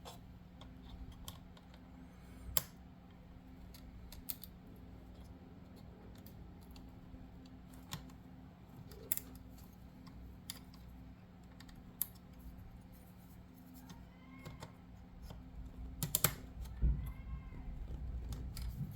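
Small, scattered plastic clicks and taps as a tiny plastic step is worked and pressed into its tight-fitting slot on an H0 scale model railway car, with a cluster of louder clicks and a soft bump near the end. A faint steady hum runs underneath.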